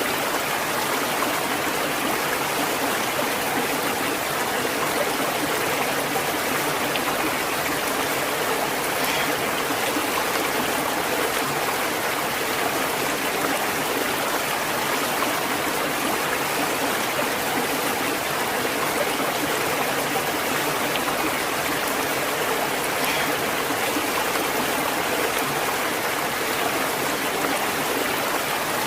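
Stream water flowing and splashing steadily over rocks, a continuous even rush.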